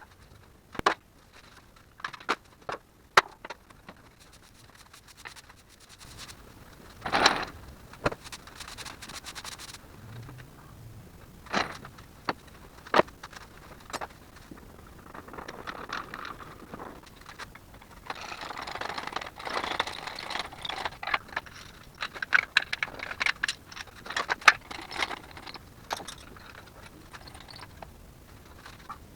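Hand tools and metal parts clinking, knocking and scraping at irregular intervals during an engine removal, with a longer scrape about seven seconds in and a busier stretch of rattling about eighteen seconds in.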